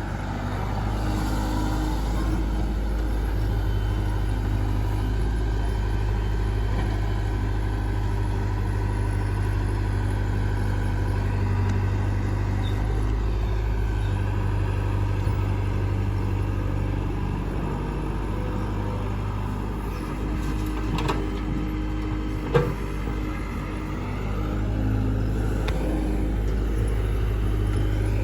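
Heavy diesel engine running steadily with a deep low hum, with a couple of short sharp knocks about two-thirds of the way through.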